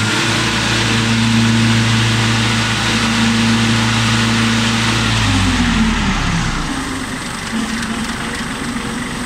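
Kubota tractor diesel engine running steadily at raised revs, set for 540 rpm at the PTO, driving the finishing mower. About five and a half seconds in the revs fall and the engine settles to a lower, quieter speed.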